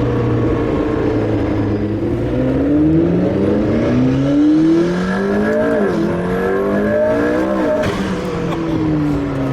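McLaren P1's twin-turbo V8 pulling hard on track: the engine note holds steady, then climbs, drops sharply at a gear change, climbs again and drops once more before settling lower.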